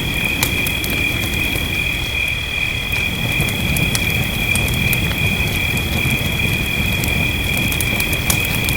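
Wood fire crackling with scattered sharp pops over a low, dense hiss, with a steady high-pitched trill running underneath the whole time.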